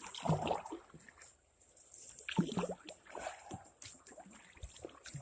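Small knocks and rustles of a kayak and gear being handled on the water, with light water sloshing against the hull.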